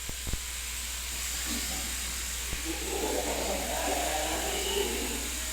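Steady hiss with a low hum underneath, and a faint, indistinct murmur in the background from about a second and a half in.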